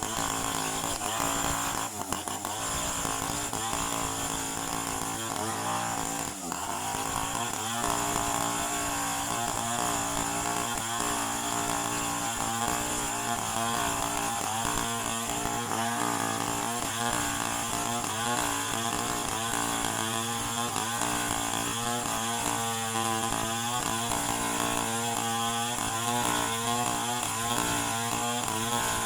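Two-stroke chainsaw engine running continuously at high speed, its pitch wavering slightly throughout and more unsteadily in the last third.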